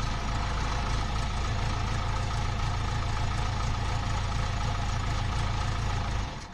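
A heavy engine idling steadily with a deep low rumble, stopping abruptly near the end.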